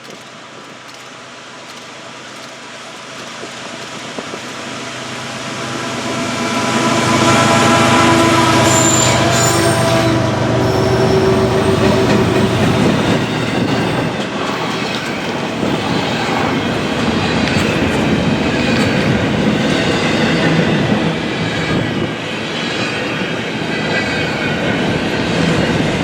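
A train passing close by: it grows steadily louder over the first seven seconds, then the wheels run on the rails loudly and steadily, with held tones and a short high squeal from the wheels a few seconds after it arrives.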